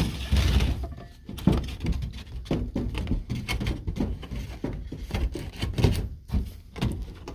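A new furnace air filter being pushed and forced into the furnace's filter slot, with a scrape near the start and then a run of irregular knocks and thunks. The filter is about an inch too big and has to be crushed a little to fit.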